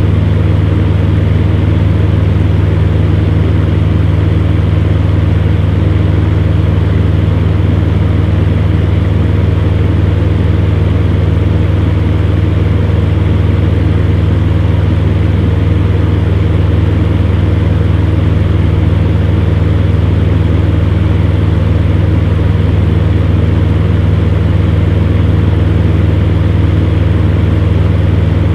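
Electric fan heater running steadily: a deep, even hum with a constant rush of air over it.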